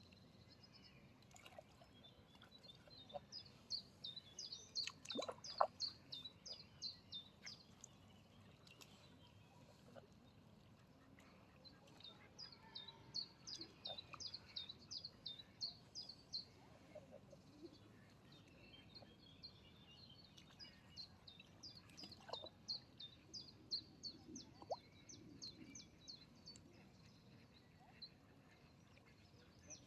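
A small songbird giving rapid series of short, high chirps, several a second, in three bouts: one a few seconds in, one in the middle and a longer one near the end. There are faint outdoor ambience and a few soft knocks between the bouts.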